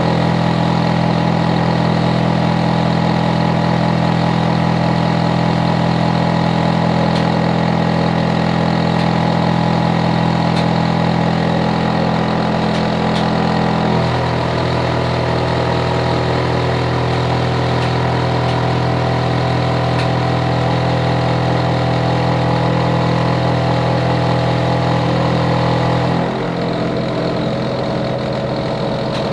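Hitachi air conditioner outdoor unit running with a steady, loud droning hum. Its tone steps lower about halfway through and drops again, slightly quieter, near the end, as the unit changes speed.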